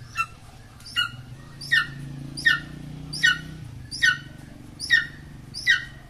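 A bird calling over and over: eight short, sharp squeals, each falling quickly in pitch, evenly spaced a little under a second apart.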